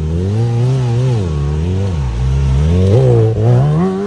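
Kawasaki ZX-6R inline-four engine revving up and down again and again, the throttle blipped about once a second, with a higher rise near the end.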